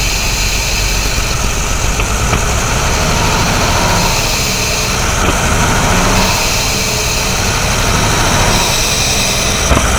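AC Buckland's six-cylinder engine running steadily at low revs.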